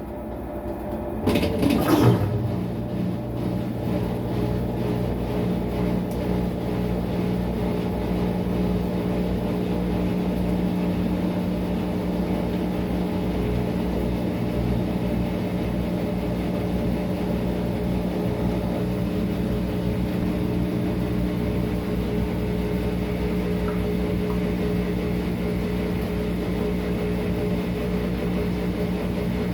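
Maytag MVWX655DW1 top-load washing machine running its tub-clean cycle: a steady mechanical hum at an unchanging pitch, after a brief louder noise that sweeps in pitch about two seconds in.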